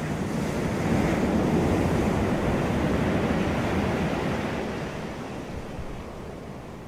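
Sea waves breaking and washing in: a rushing noise that swells about a second in and fades away from about four seconds on.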